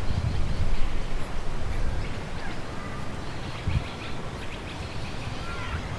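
Wind gusting on the microphone, strongest in the first second. From about two seconds in, faint bird chirps and short whistled calls come through.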